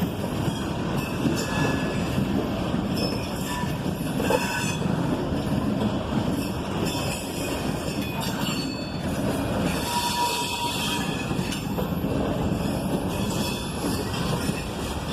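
Freight train cars rolling past: a steady rumble of steel wheels on rail, with short high-pitched wheel squeals now and then.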